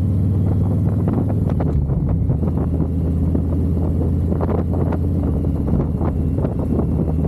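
Harley-Davidson V-twin engine running steadily at cruising speed, with wind buffeting the microphone.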